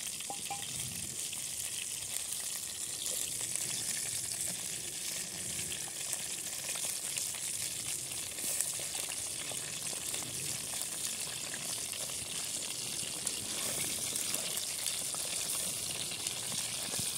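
Chicken wings frying in a pot over a wood-burning camp stove: a steady sizzle with small crackles.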